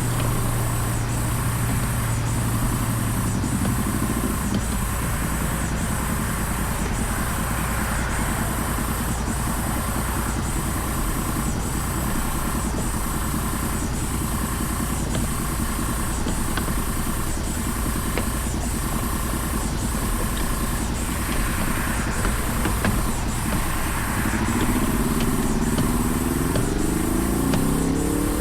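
Vehicle engine running under a steady noise of traffic or road and wind. Near the end an engine climbs in pitch as it revs up.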